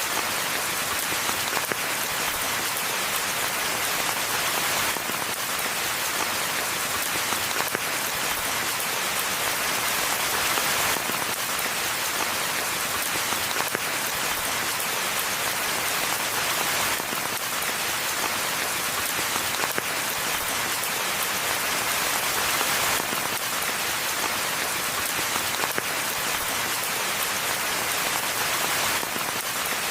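Steady rain falling in a forest, an even hiss of many drops pattering on leaves and the ground.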